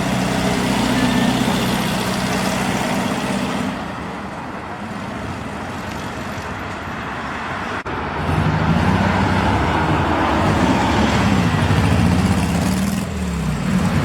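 Classic car engines running as cars drive past. The engine sound eases off about four seconds in, then from about eight seconds a louder engine comes through with its pitch rising and falling.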